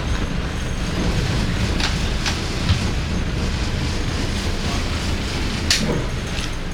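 Small boat's engine running steadily as it comes in to dock, a low rumble with a few sharp knocks on top.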